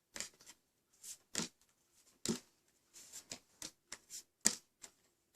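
Tarot cards being handled and picked from the deck: about a dozen short, irregularly spaced card slaps and slides.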